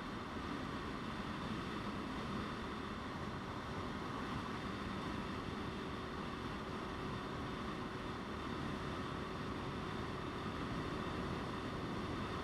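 Motorcycle ridden at a steady speed: wind rushing over the microphone, with the engine's steady drone underneath.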